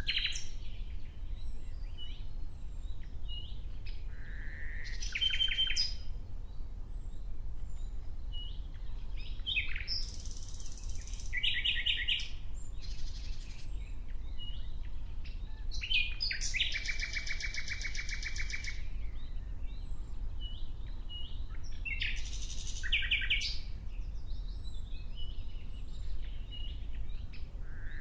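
Nightingale singing: separate phrases of fast repeated notes and rattling trills, a few seconds apart, over a low steady rumble.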